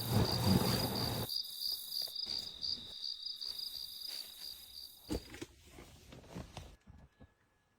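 Insects chirring in a steady, pulsing high-pitched drone that stops about five seconds in, with a short rush of low noise at the start and faint clicks afterwards.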